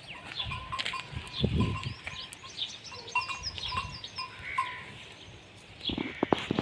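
Small birds chirping over and over in short high notes. A brief low sound comes about a second and a half in, and a run of quick knocks near the end.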